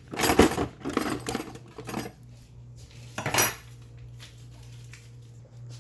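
Kitchen utensils and dishes clattering: a run of short knocks and scrapes in the first second and a half, one more at about two seconds, and a louder clatter a little after three seconds, over a low steady hum.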